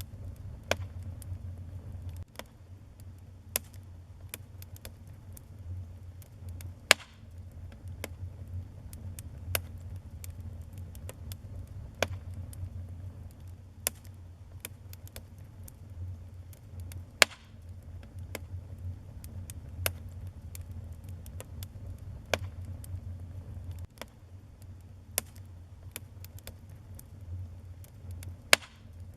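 Wood fire in a fireplace crackling, with sharp irregular pops over a steady low rumble of the flames. A few pops are much louder than the rest.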